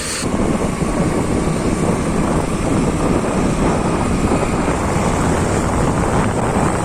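Steady rushing noise of a vehicle travelling along a highway.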